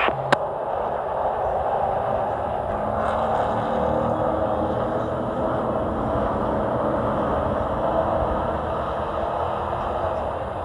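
Racing pickup truck's V8 engine and road noise, running steadily at racing speed, with one sharp click near the start.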